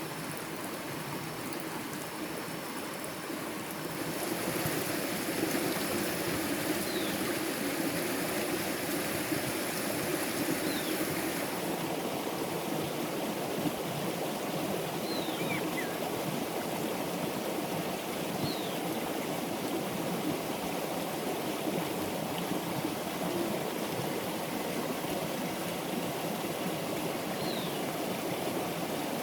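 Steady running water, like a stream or a flowing pipe, in a continuous wash. It gets louder and hissier from about four seconds in for several seconds. A few short, high, falling chirps sound over it now and then.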